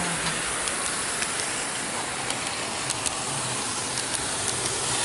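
Running noise of an N-gauge model train heard from a camera car riding on it: a steady rushing hiss with scattered sharp little clicks from the wheels on the track.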